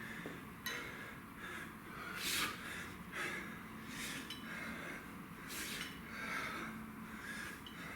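A man breathing hard through exercise, with forceful breaths about every second and a half.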